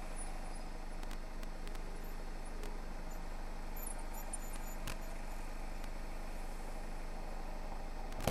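A car's turbocharged engine idling, heard as a steady low hum from inside the cabin, with a few faint clicks.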